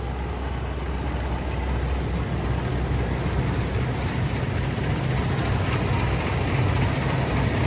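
Fortschritt E514 combine harvester's diesel engine and threshing machinery running steadily, growing gradually louder.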